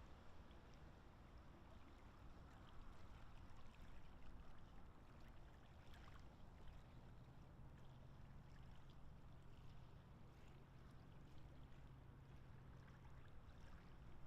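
Very faint water sounds, with a few soft ticks around the middle, over a low steady hum.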